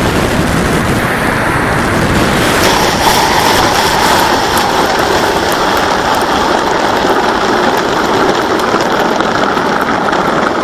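Steady rush of airflow and the whine of the electric motor and propeller, heard from a camera on board the Bynary 1200 model aircraft in flight. A motor tone appears about three seconds in and climbs slightly toward the end.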